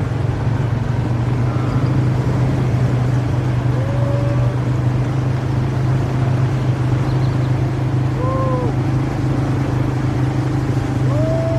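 Motor vehicle engine running steadily at a constant speed, with three short rising-and-falling tones above it.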